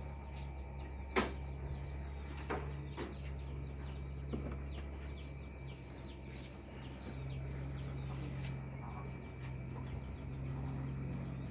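Small birds chirping over and over, short falling chirps in quick succession, over a low steady hum, with a few sharp clicks, the loudest about a second in.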